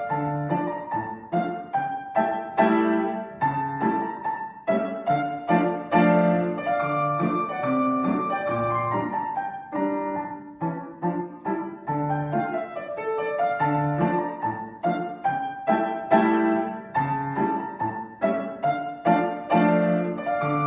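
Acoustic piano playing a classical piece, with a steady stream of struck notes and chords.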